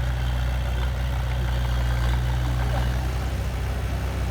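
Heavy machine's diesel engine running steadily at a low hum; about three seconds in, its note turns into a rapid, rough pulsing.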